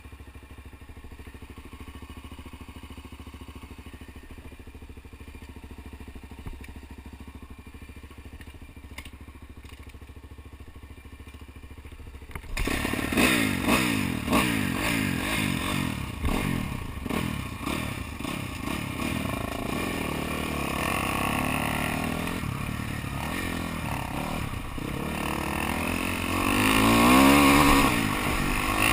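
Motocross motorcycle engines: faint and distant at first, then about twelve seconds in the bikes come close and loud, their engine pitch rising and falling as riders rev and shift through the track.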